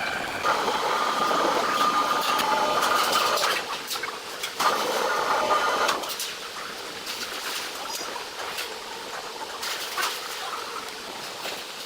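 Sawmill machinery running: a busy mechanical clatter with scattered knocks, and a faint whine over it in the first few seconds.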